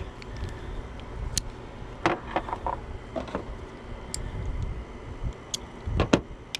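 Scattered clicks and light knocks of hand tools working on a bracket in a truck's engine bay, with a couple of louder knocks near the end.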